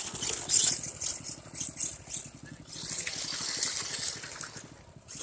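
Small dirt bike engine idling with an even low putter, overlaid by loose rattling that gets louder for a second or so about three seconds in.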